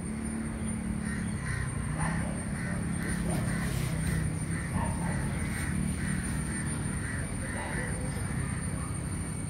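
A bird calling in a quick repeated series of short notes, about three a second, over a steady low hum of traffic and a thin steady high whine.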